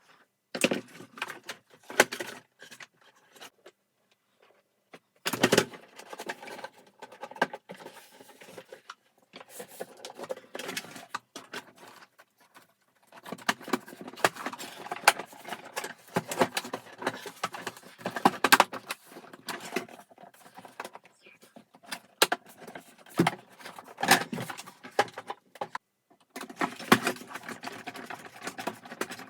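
Plastic vacuum-cleaner parts and small hardware being handled during disassembly: irregular clicks, knocks and rattles coming in clusters, with short pauses between them.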